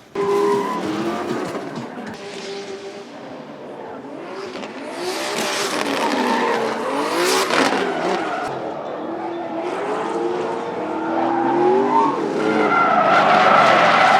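Vehicles drifting on track: motors revving up and down in pitch, with tires squealing in bursts, loudest around the middle and again near the end.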